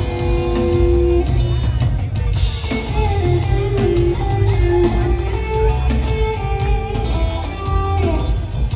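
Live rock trio playing an instrumental jam: guitar notes held and shifting over bass and a drum kit, with a cymbal crash about two and a half seconds in.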